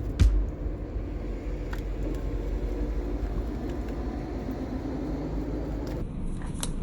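Steady low mechanical rumble, with a short knock just after the start and a couple of light clicks later on.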